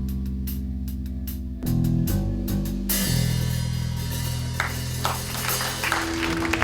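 Rock band's closing chords: held guitar and bass chords over drum hits, then a cymbal crash about three seconds in that rings on. An audience starts clapping near the end.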